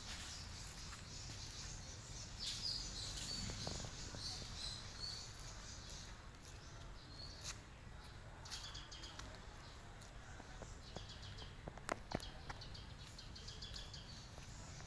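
Faint outdoor background noise with small birds chirping on and off, and two sharp clicks close together about twelve seconds in.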